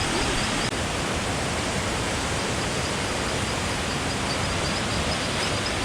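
Mountain river water rushing over rocks, a steady, even rush of noise.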